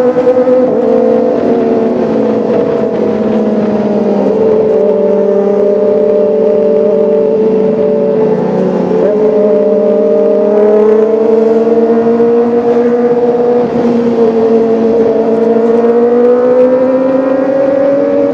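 Kawasaki ZX-25R's 250 cc inline-four engine and exhaust running continuously, its note slowly falling and rising again, with a brief dip about nine seconds in.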